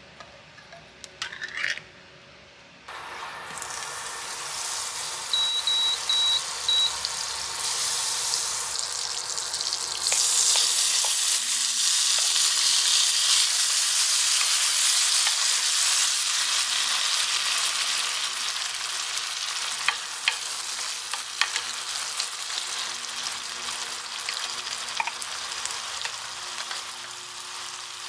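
Canned corn kernels sizzling in a hot pan, the sizzle starting suddenly about three seconds in and growing louder about ten seconds in as they are stirred with a wooden spoon. Before it come a few clicks of a pull-tab can being opened, and four short electronic beeps sound early in the frying.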